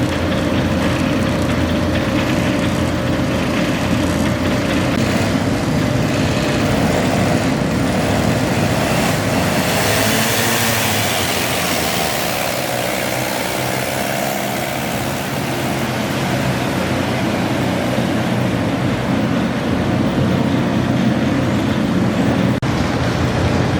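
Garden tractor pulling engine running steadily and loudly, with a rush of hiss that swells around the middle and then fades.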